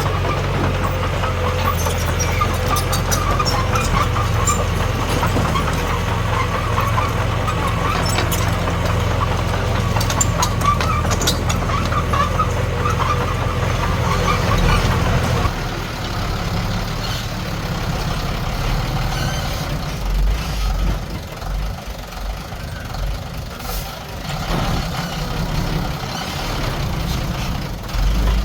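Heavy diesel engine of an earthmoving machine running steadily, with light metallic clinks in the first half; about halfway through the engine note drops to a quieter, lower running.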